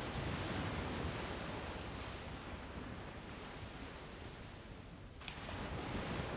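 Strong wind blowing across the microphone as a rushing roar that swells and eases in gusts, with a sharp rise about five seconds in.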